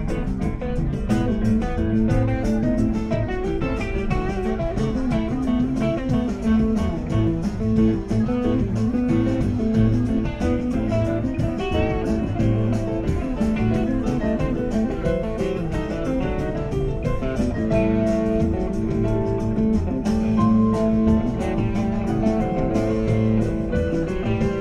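A live band playing an instrumental, guitar-led passage over a steady beat.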